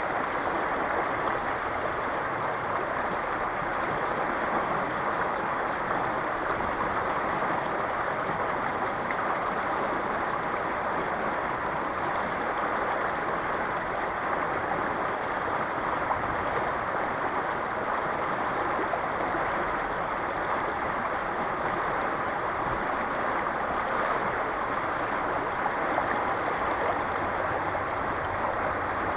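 Fast river current rushing steadily, a continuous even rush of water.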